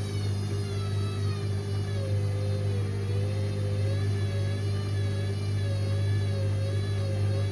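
Indesit IWC6165 washing machine running its drum motor during a cotton wash, a steady hum with a faint whine that wavers up and down in pitch.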